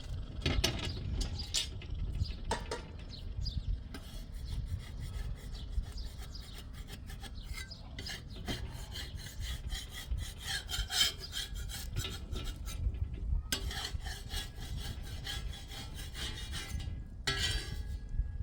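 Rapid, continuous scraping and rasping strokes, like a hand tool working rough material. They grow busier and louder about ten seconds in and again near the end.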